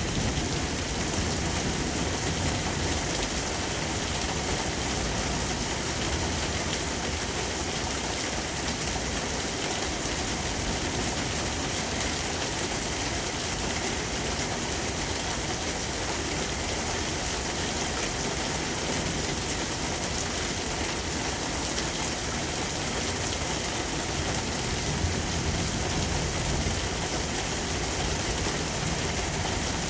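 Heavy rain pouring steadily in a thunderstorm, with a low rumble of thunder underneath.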